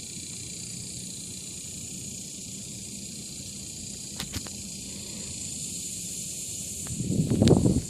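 Outdoor ambience on a creek, with a steady high-pitched insect drone. Two clicks come about four seconds in, and a brief, loud low rumble comes near the end.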